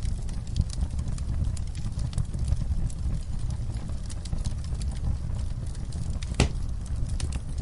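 Campfire crackling: a steady low rumble of burning wood with frequent sharp pops and snaps, and one louder pop near the end.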